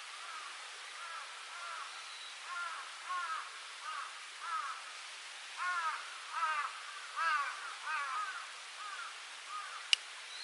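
A crow cawing over and over, a long run of short caws that gets louder about halfway through, over a steady background hiss. A single sharp click comes near the end.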